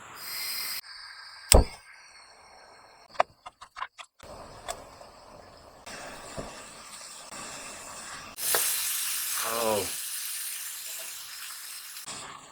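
Cooking utensils being handled with one sharp click and a few lighter clicks, then food going into a hot pan and sizzling, starting about eight seconds in and slowly dying down.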